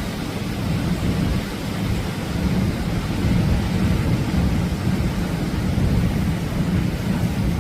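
Atlantic surf breaking on the beach as a continuous loud wash of noise, with a deep rumble from wind buffeting the microphone.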